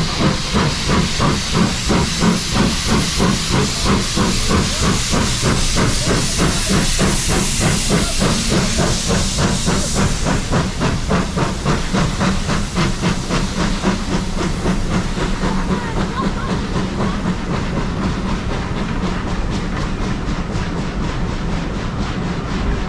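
Steam locomotive working, its exhaust beating in a fast, even rhythm while steam hisses strongly. About ten seconds in, the hiss drops back and the exhaust beats carry on.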